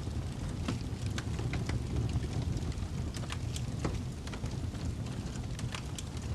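Wood fire crackling in a fireplace: a steady low rumble of the flames with scattered sharp pops and snaps at irregular intervals.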